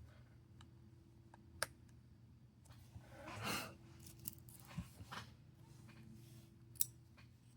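Small tools and phone parts being handled during a smartphone screen repair: a few sharp clicks and light taps, with a brief soft rush of noise near the middle, over a faint steady room hum.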